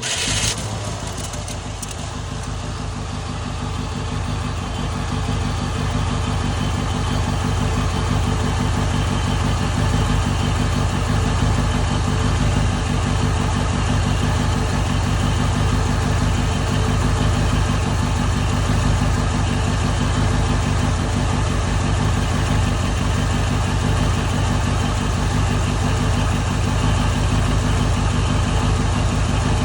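1971 Ford Ranchero's engine idling just after a cold start. It grows louder over the first six seconds or so, then runs steadily.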